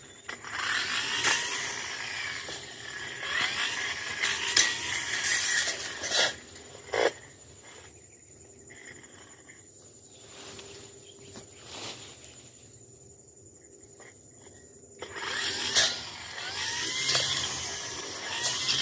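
Tanzu brush cutter slicing through thick brush in two loud spells, the first for about six seconds and the second starting about fifteen seconds in. Between them it drops to a much quieter steady running.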